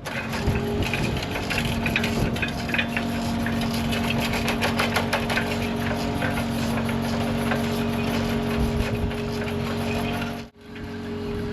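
An engine running steadily with a rapid clicking rattle, broken off by a sudden brief silence about ten and a half seconds in.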